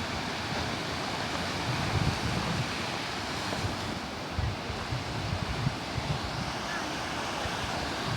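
Mediterranean surf washing steadily onto the shore, with wind buffeting the microphone in uneven low gusts now and then.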